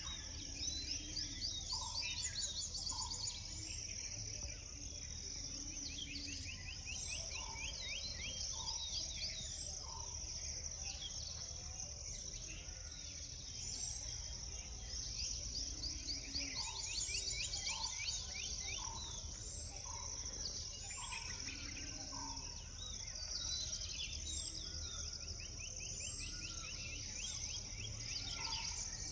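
Early-morning chorus of many birds chirping at once: dense, rapid high chirps and trills, with short lower notes repeated every second or so. A steady high-pitched insect drone runs underneath.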